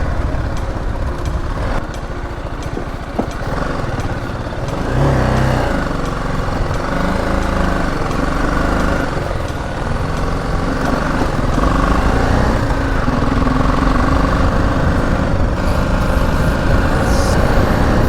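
BMW G 310 GS single-cylinder motorcycle engine running under way, with a brief rise in revs about five seconds in.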